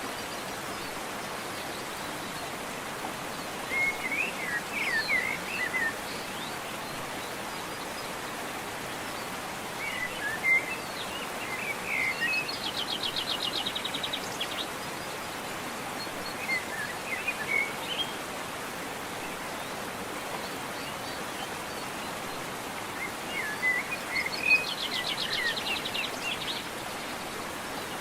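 Steady rush of a waterfall under birdsong: scattered short chirping phrases, with a rapid trill twice, about halfway through and near the end.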